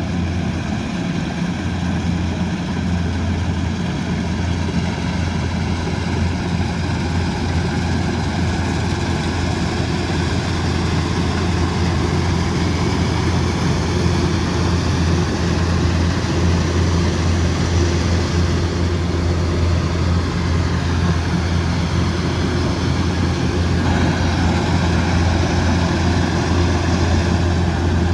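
Kubota DC108X combine harvester's diesel engine running steadily under load, a loud low drone, with the constant rushing clatter of the harvesting machinery over it.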